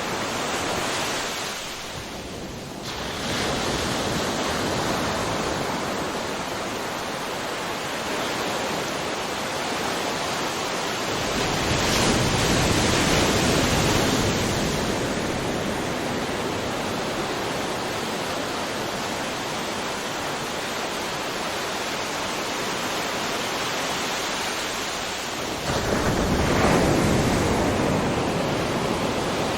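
Ocean surf: a continuous wash of breaking waves, with one wave swelling and crashing about twelve seconds in and another breaking suddenly near the end.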